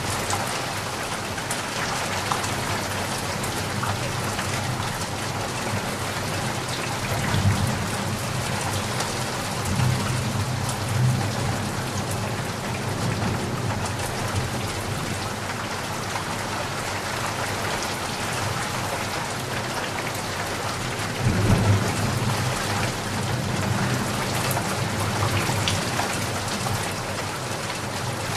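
Steady rain falling on a surface, with low rumbles of thunder rolling in three times.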